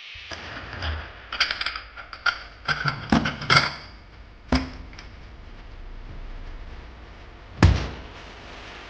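Dishes and cups clinking and knocking as they are handled and set down in a kitchen cupboard. There is a quick flurry of clinks in the first few seconds, a single sharp knock about four and a half seconds in, and a louder thump near the end.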